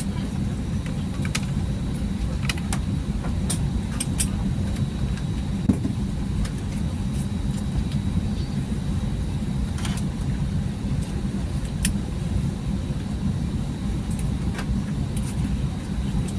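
Steady low cabin rumble of an Airbus A320neo on the ground, engines running as it taxis, with a faint steady high whine. Scattered light clicks, and one sharper knock about six seconds in.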